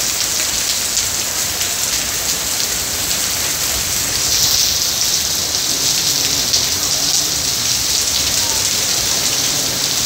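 Heavy rain pouring steadily onto trees and foliage, a dense even hiss that swells slightly about four seconds in.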